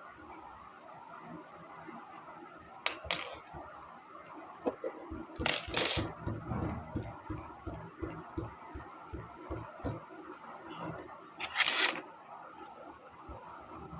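Small model aircraft kit pieces being handled and fitted together: steady rustling and fiddling, broken by a few sharp clicks and cracks as parts are pressed or snapped into place. The loudest crack comes near the end.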